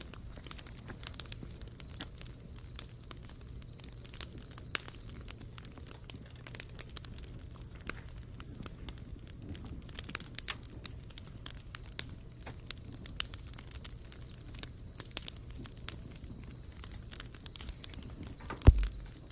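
Dead-wood bonfire crackling, with irregular sharp pops throughout. A single loud thump comes near the end.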